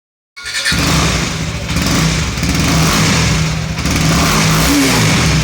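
KTM Duke 250's single-cylinder engine running through its side-mounted exhaust, with some light revving. The sound cuts in abruptly just after the start.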